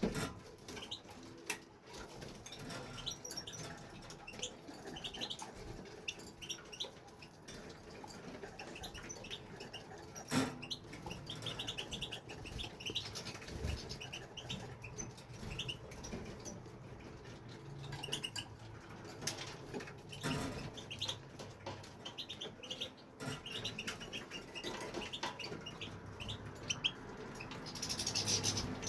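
European goldfinch twittering in scattered bursts of short, high notes, with bird wing flapping and a few sharp clicks or knocks.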